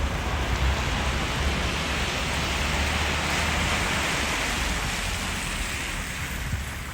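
Downtown street traffic in snow: a low engine rumble with tyre hiss on a snowy road, the hiss swelling about halfway through and fading near the end as a vehicle passes.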